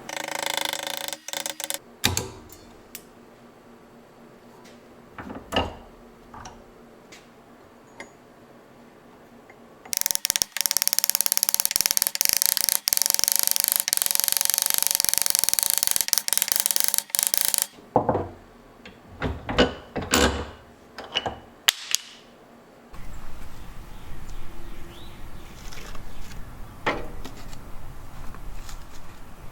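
Workshop tool sounds: scattered clicks and clanks of hand tools on metal, with a power tool running steadily for about eight seconds in the middle.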